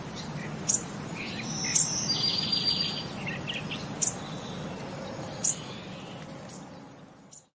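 Birds chirping: short, very high chirps every second or so, with a brief rapid trill about two seconds in, over a steady low hum. The sound fades out near the end.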